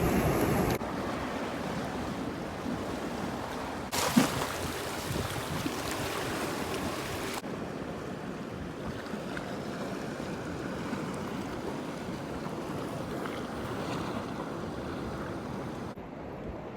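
Wind and sea noise aboard a passenger ferry, a steady rushing wash that changes abruptly a few times, with one short knock about four seconds in.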